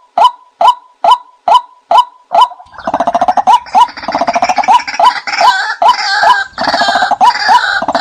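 Watercock calls, as played to lure the birds: a steady series of sharp notes about two a second, then, about a third of the way in, a faster, denser run of calls with a low throbbing underneath.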